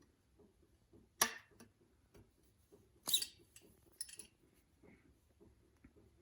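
Small metal fork parts being handled, giving a few sharp clicks and light clinks: one about a second in, a louder one around three seconds, and a smaller pair around four seconds.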